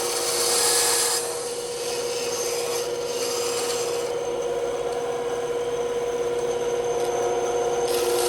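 Bandsaw running with a steady hum while its blade cuts wood. The rasping of the cut swells for about the first second, again around three seconds in, and once more near the end.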